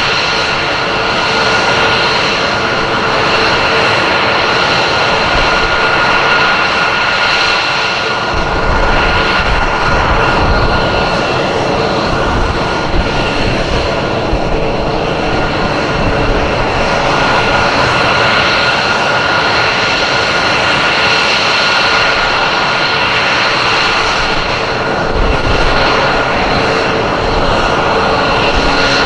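Jet aircraft engines running with a steady high whine over a low rumble that swells a few times.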